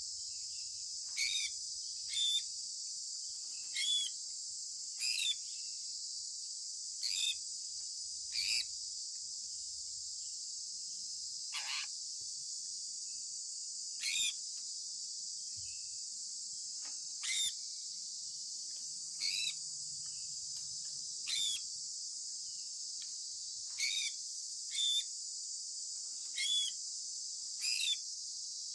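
Sun conure parrot giving short, sharp chirps, one every second or two, each dropping quickly in pitch, over a steady high-pitched hiss.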